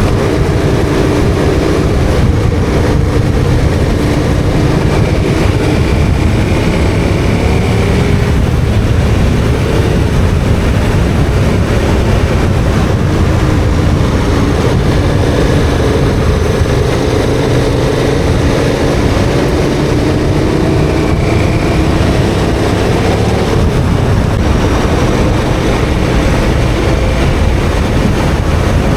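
KTM 1290 Super Adventure R's V-twin engine running steadily under way, its pitch drifting gently up and down with the throttle, over a constant rush of wind and tyre noise.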